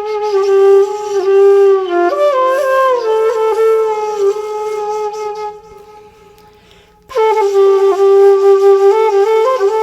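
Background music: a solo flute playing a gliding melody, which drops away for about a second and a half midway and then comes back.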